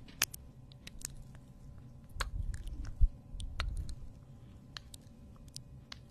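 Close-miked mouth sounds: chewing and biting on something held to the lips, with scattered sharp clicks and a low thump about three seconds in.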